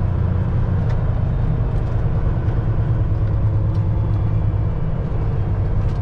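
Semi truck's diesel engine running steadily at low speed, a continuous low rumble heard from inside the cab.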